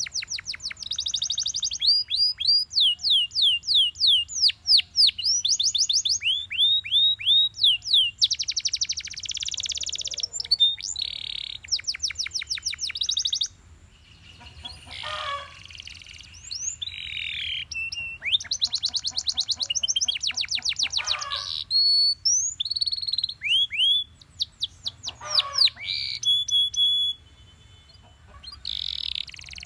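Belgian canary singing: fast trills of repeated sweeping whistled notes that switch to a new note pattern every second or two, mixed with buzzy rolls. Brief lulls come about halfway through and again near the end.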